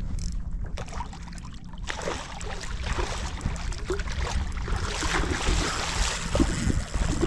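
Water splashing and sloshing around a fishing kayak, building up about two seconds in, over a steady low rumble of wind on the microphone.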